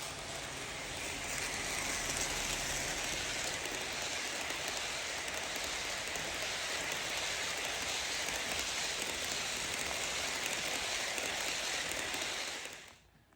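HO scale passenger train rolling along the track: a steady hiss of small metal wheels on the rails, which drops away sharply near the end.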